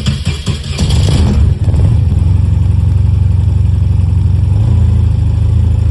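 Motorcycle engine catching on a cold start with full choke after weeks unused: uneven firing for about the first second, then settling into a steady fast idle. The idle note steps slightly lower about four and a half seconds in.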